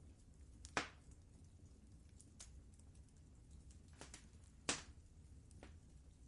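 Wood fire crackling in a fireplace: sparse, irregular pops and snaps over a faint low rumble. Two louder pops come about a second in and near the five-second mark.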